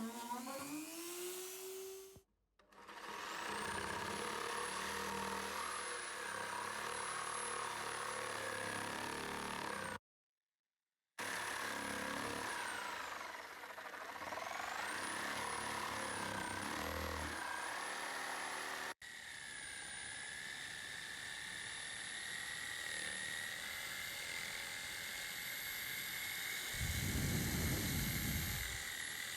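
Small electric power tool motor whining, its pitch dipping and recovering under load, in several short takes cut together. A louder low rumble lasts about a second near the end.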